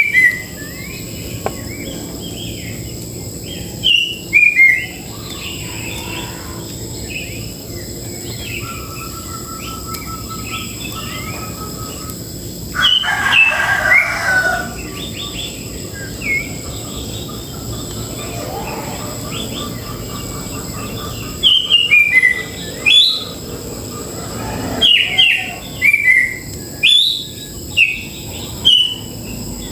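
Cucak jenggot (grey-cheeked bulbul) calling in clusters of loud, quick, chirpy notes several seconds apart, with softer chirps between. Faint steady high-pitched tones run behind.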